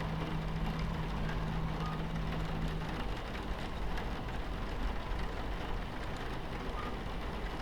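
Steady rumble of a train running on its tracks, with an even hiss of rain on the carriage window. A low steady hum under it stops about three seconds in.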